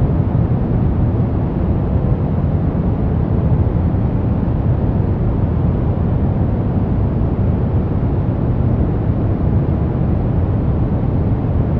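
Steady, unchanging white-noise track: an even rushing hiss with most of its weight in the low end and little at the top.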